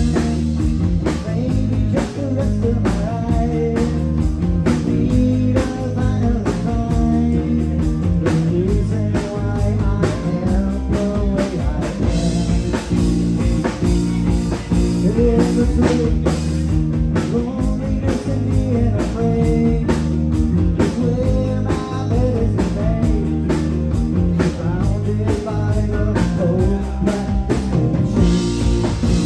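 A rock band playing live: a steady beat on a drum kit under electric guitar and bass, with a bending melody line running over it.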